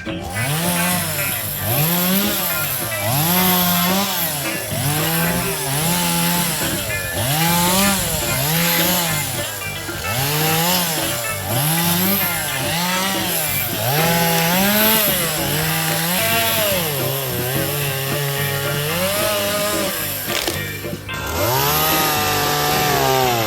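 Stihl two-stroke chainsaw being revved over and over while cutting wood, its engine pitch rising and falling about once a second. The pitch holds steadier for a few seconds, then drops out briefly and climbs again near the end.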